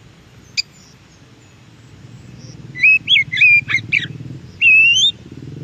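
Oriental magpie-robin singing a short phrase of clear whistled notes, the last one a rising whistle. A single sharp click comes about half a second in, and a low rumble underneath grows louder toward the end.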